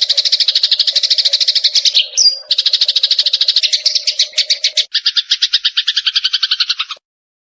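Eurasian tree sparrow giving rapid fighting chatter: fast repeated chirps, about ten a second, broken briefly by a single rising note about two seconds in. The chirps change pattern near five seconds in and cut off suddenly near the end.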